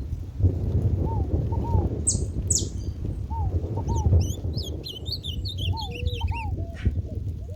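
Saffron finches calling: two sharp, high downward-sweeping calls about two seconds in, then a fast run of short high chirps about halfway through. Lower, repeated short arched calls from another bird sound throughout, over a steady low rumble.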